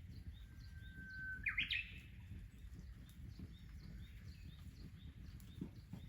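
A bird sings once: a held whistle about a second in, then a quick rising flourish. Short high chirps repeat steadily behind it.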